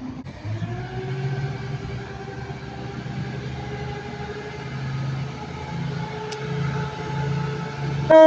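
Diesel multiple-unit train engine running at a platform, its revs rising at the start and then holding steady. A short, loud train horn blast sounds near the end and is the loudest sound.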